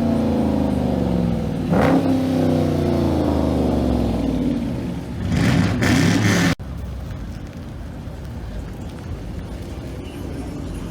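A vehicle engine is revved and falls back in pitch, revved again about two seconds in and falls again, then revved harder near the middle. It cuts off abruptly a little past halfway, leaving a quieter steady background.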